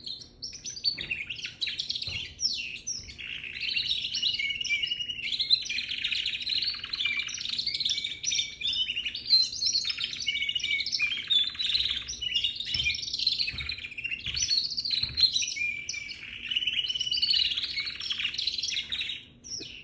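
Young domestic canary singing a long, continuous song of warbles and trills, stopping just before the end.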